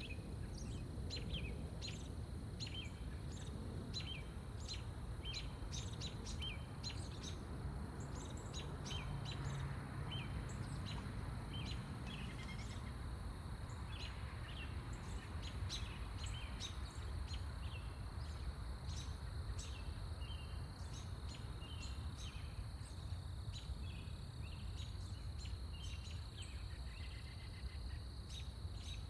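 Songbirds chirping in many quick, short, high notes, over a steady high-pitched drone and a low background rumble.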